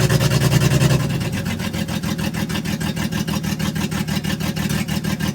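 1984 GMC S15 pickup's engine running roughly, barely keeping going after a long sit on a fuel prime, with an even pulsing beat. It drops a little in level and pitch about a second in.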